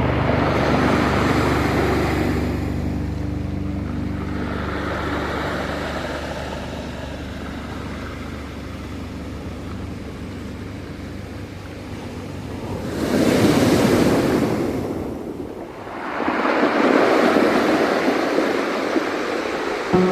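Ocean waves washing ashore in a steady surf, with two larger waves surging in about two-thirds of the way through and again near the end.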